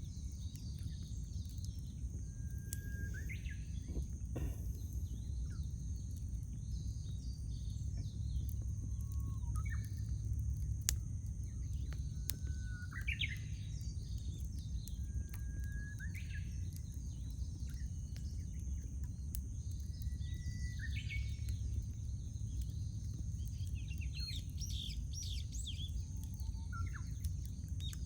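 Birds calling outdoors: one bird repeats a call every three or four seconds, a held note that sweeps sharply upward, and quicker high chirps cluster near the end. A steady low rumble runs underneath, with a few faint sharp crackles from a wood campfire.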